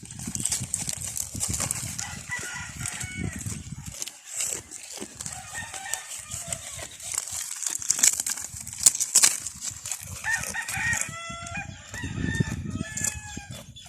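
A goat chewing mango leaves: crisp crunching with leaf rustles and crackles. Chickens call in the background, a short run of calls at about two seconds in and a longer one near the end.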